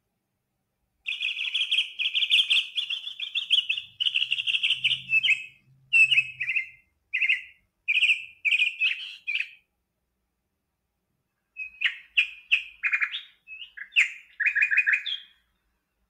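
A songbird singing a string of loud, varied chirps and trills, with a pause of about two seconds partway through.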